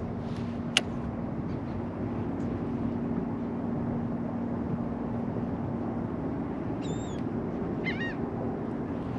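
Steady outdoor wind-and-water noise with a faint low hum, a single sharp click about a second in, and seabirds giving short chirping calls twice near the end.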